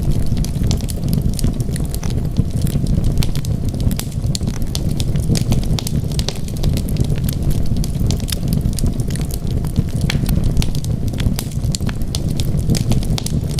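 Wood fire burning in a fireplace: a steady low rumble of flames with frequent sharp crackles and pops from the burning wood.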